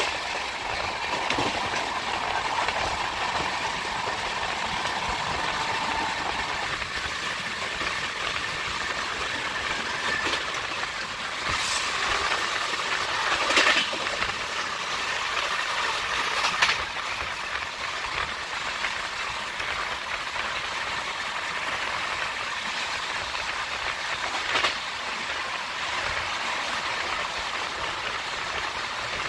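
Deccan Express passenger train rolling along the track: a steady rumble and rattle of wheels on rails with a clickety-clack over the joints. A faint whine fades out about six seconds in, and a few brief louder clatters come at about 12, 14, 17 and 25 seconds.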